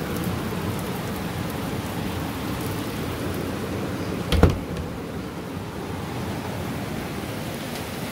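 Steady rain falling, an even hiss with no letup. About halfway through comes one sharp, heavy thump.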